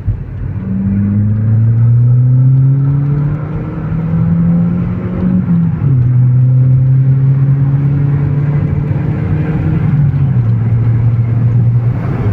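Seat Ibiza's engine and exhaust with the muffler removed, heard from inside the car while driving, with a throaty drone. The note rises as the car accelerates through a gear, drops sharply at a gear change about six seconds in, then holds steady while cruising.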